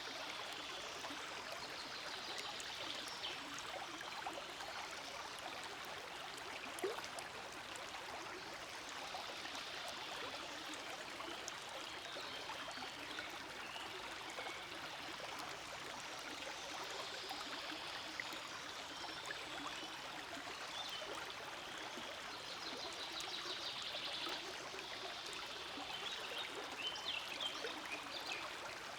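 Forest stream flowing over rocks: a steady, continuous rush and trickle of water.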